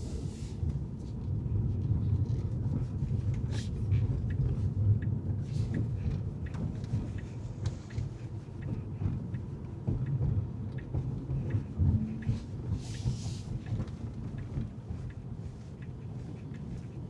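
Car on the move, a steady low rumble of road and engine noise, with a few brief hisses of other traffic passing.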